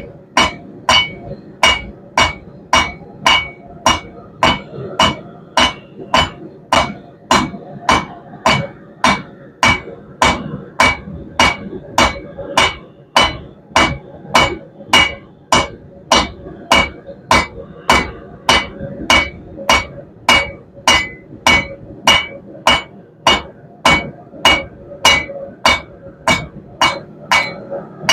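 Hand hammer striking hot 1/2 inch round steel bar on an anvil, drawing it out into a taper: a steady rhythm of about two blows a second, each with a short metallic ring.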